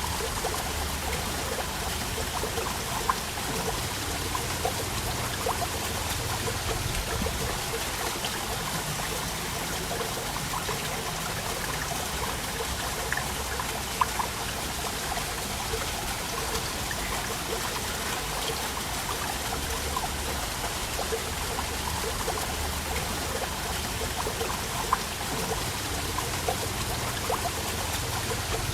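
Waterfall water running and splashing steadily, with a few brief louder splashes.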